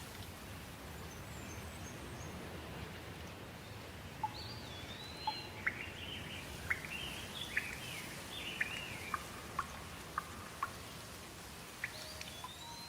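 Steady rain falling, with birds chirping in short whistled calls through the middle of it.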